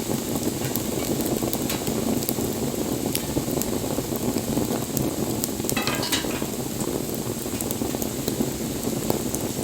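Wood campfire burning: a steady hiss of flames with scattered sharp crackles and pops, and a short run of crackling about six seconds in.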